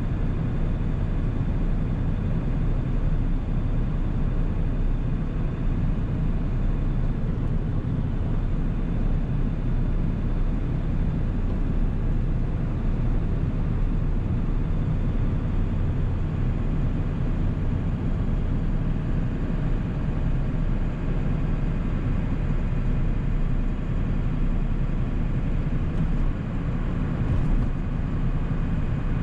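A 1997 7.3 L Powerstroke turbo-diesel V8 running steadily under way, its low drone mixed with road noise.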